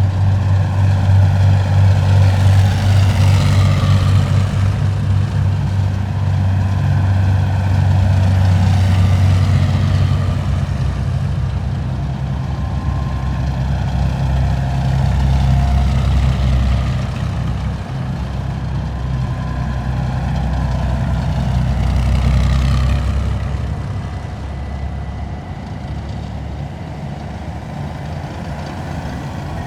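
Heavy military vehicles driving past one after another in a column: a deep engine rumble that swells and fades as each goes by, about four pass-bys, growing quieter near the end.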